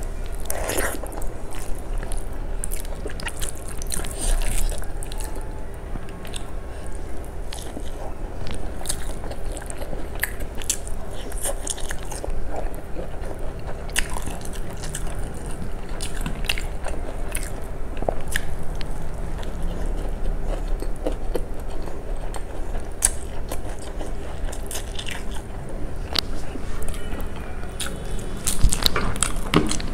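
Close-miked eating: a person chewing mouthfuls of rice with kadi (yogurt curry) and pakodas, eaten by hand, with many small sharp mouth clicks and smacks scattered throughout. A faint steady hum runs underneath.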